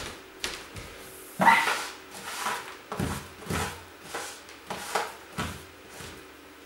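Household things being handled and set down: a series of knocks, clatters and short scrapes, the loudest about one and a half seconds in.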